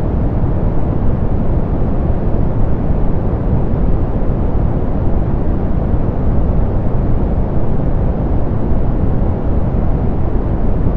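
Soft pink noise: a steady, unchanging rushing sound, strongest in the bass and with the treble rolled off.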